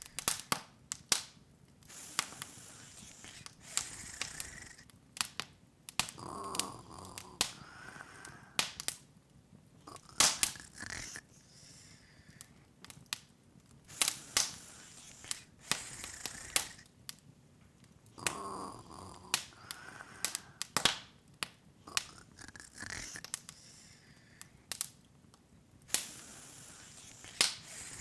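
Open fire crackling: irregular sharp pops and snaps, sometimes several in quick succession, over a low hiss.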